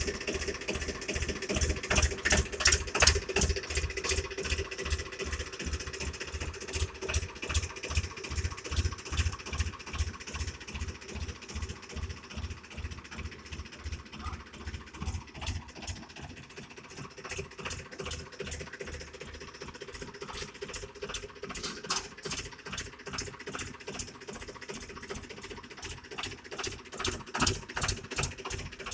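Tractor engine running with a steady rhythmic thumping of a few beats a second. It is louder in the first few seconds, drops back about halfway through and picks up again near the end.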